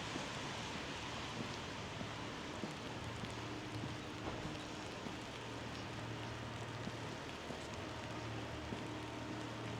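Light rain falling steadily, an even patter with scattered small drip ticks, joined about three seconds in by a low steady hum.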